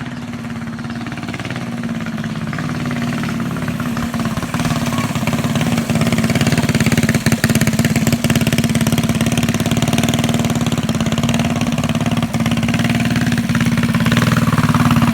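Mini bike's small single-cylinder engine running at a steady pace, growing louder over the first several seconds and then holding steady.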